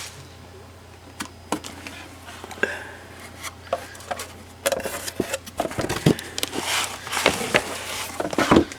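Packaging and accessories being handled and unpacked: scattered clicks and taps, turning into busier rustling with knocks about halfway through.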